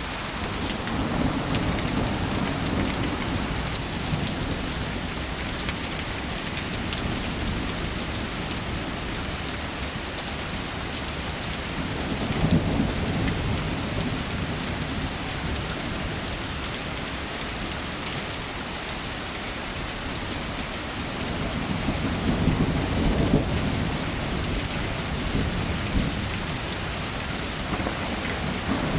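Steady heavy rain, with low thunder rumbling up three times: near the start, about halfway through, and about two-thirds through.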